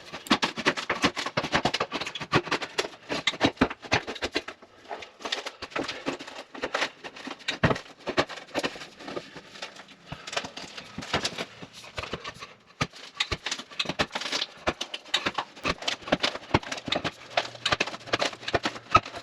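Many quick, irregular knocks and scrapes of tool work on the rotted bus floor, with no steady saw or motor sound.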